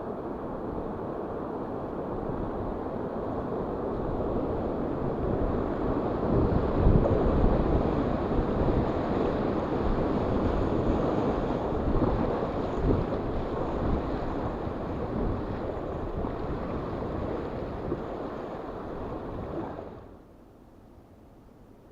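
Wind buffeting the microphone out on the river: a rushing rumble that builds toward the middle and cuts off suddenly near the end.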